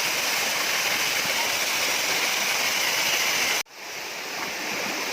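Waterfall rushing steadily. About three and a half seconds in the sound cuts out abruptly and comes back slightly quieter, as at a cut between recordings.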